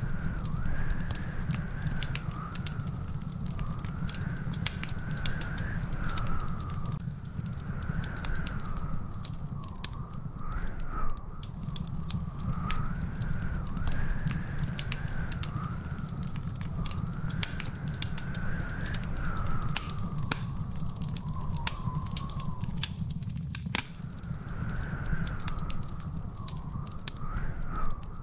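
Wood fire crackling in a fireplace, with frequent sharp pops over a steady low rumble. A thin, high whistle wavers slowly up and down throughout.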